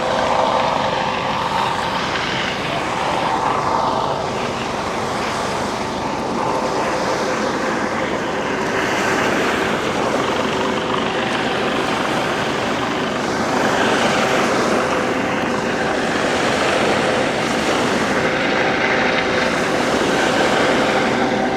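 Propeller aircraft engine droning steadily, holding an even hum of several pitches over a constant rushing noise.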